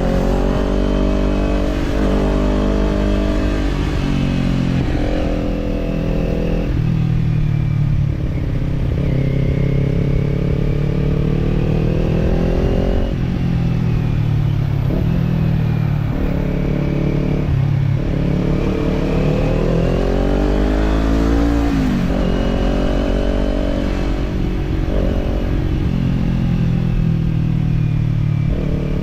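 Kawasaki parallel-twin motorcycle engine with an aftermarket slip-on exhaust, on the move. The revs climb, drop back at gear changes and fall away when the throttle is rolled off, again and again, over a steady low rumble of wind and road.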